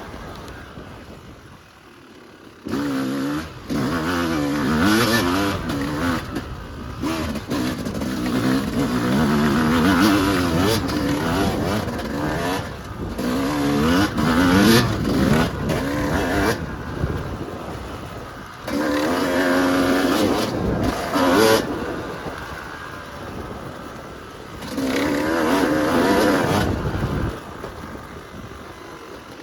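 Yamaha YZ250 two-stroke dirt bike engine being ridden, revving up and dropping back again and again as the throttle is opened and closed. It is quieter off the throttle for the first couple of seconds and again near the end.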